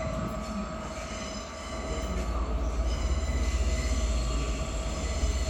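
Two trains, a Class 800 and a Class 756, pulling into the platforms at once: steady high squealing tones over a low rumble that grows louder about two seconds in.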